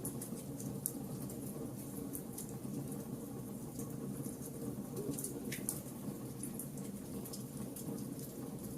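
Wood fire burning: a steady low rush of flames with irregular sharp crackles and pops from the burning wood, one of the clearest about five and a half seconds in.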